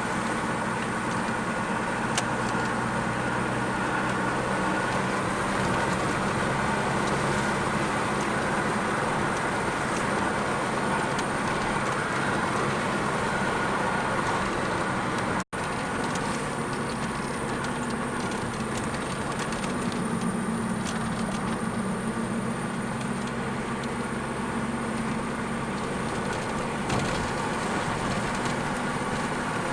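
A car driving along a road: steady engine hum and tyre and road noise, broken once by a split-second dropout about halfway through.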